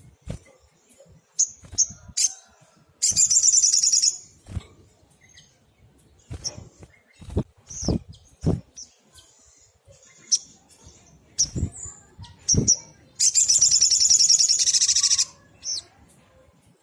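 Sunbird calling: a series of short, sharp, high chips, broken twice by a long, fast, buzzy trill of about a second and two seconds, with scattered sharp taps between the calls.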